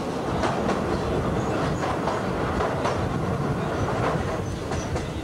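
Passenger train of the State Railway of Thailand running along the line, heard from the carriage: a steady rumble of wheels on rails with irregular clicks and clatter over the rail joints.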